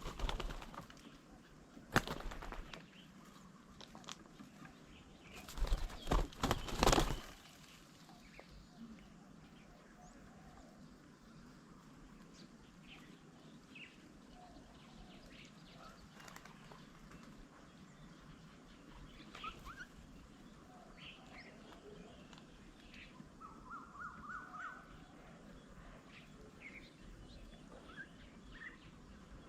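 Birds at a garden bird table: a few loud sudden flurries in the first seven seconds, then scattered short chirps and calls, with a quick run of repeated notes about twenty-four seconds in.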